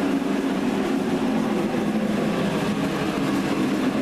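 Dyna-Glo forced-air propane heater running steadily, a constant blowing noise with a low hum underneath.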